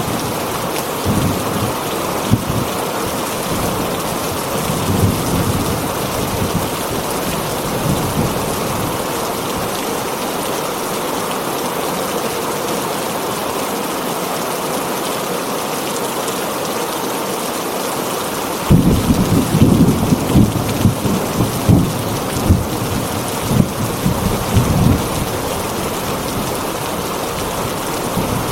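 Heavy rain falling steadily on a tin roof, with thunder rumbling. Low thunder swells in the first few seconds, and a louder clap of thunder breaks in suddenly about two-thirds of the way through and rumbles on for several seconds.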